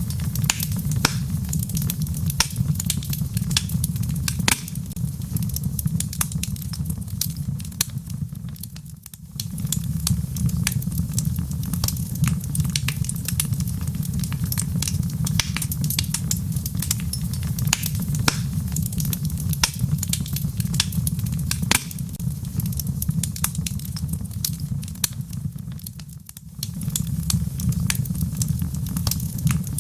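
Log fire burning in a fireplace: a steady low rumble under many sharp crackles and pops from the burning wood. The sound dips briefly twice, about nine seconds in and again some seventeen seconds later.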